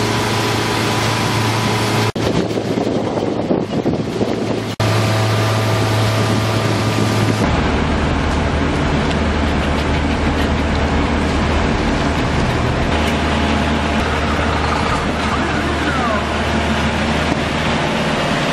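A car's engine and road noise while driving, a steady loud rumble and hiss. It changes abruptly about 2, 5 and 7.5 seconds in, as one recording cuts to the next.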